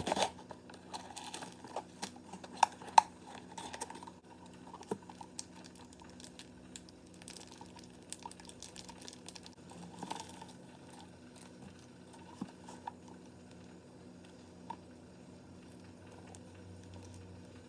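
Kitchen handling while cooking: scattered small clicks, knocks and rustling, several sharp ones in the first few seconds, thinning out later, over a steady low hum.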